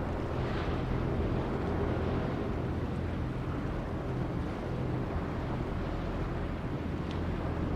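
Diesel engine of a river sand barge running steadily with a low, even drone.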